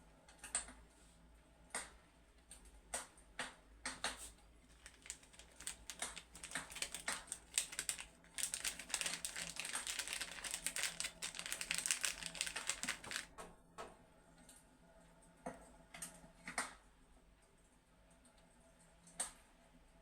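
Fireplace crackling: irregular sharp pops and clicks, with a dense run of crackling about halfway through.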